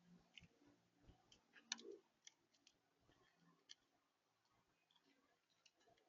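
Near silence broken by a few faint, scattered clicks, the loudest about two seconds in.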